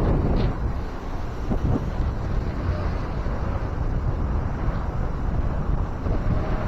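Beach wind rumbling on the microphone over the steady wash of ocean surf.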